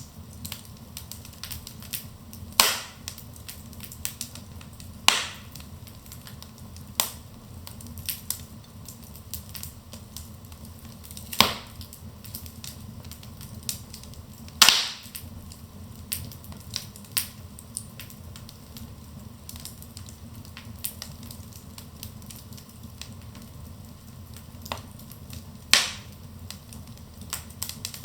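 Wood fire burning in a fireplace: a steady low rumble with small crackles and a sharp pop every few seconds.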